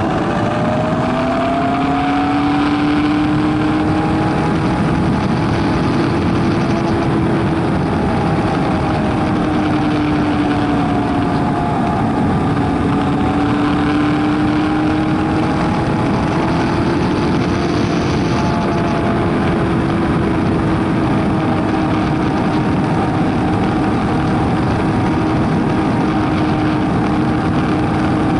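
Kawasaki Versys 1000's inline-four engine cruising at a steady pace, its note rising at the start and then rising and falling gently with the throttle, under heavy wind and road noise.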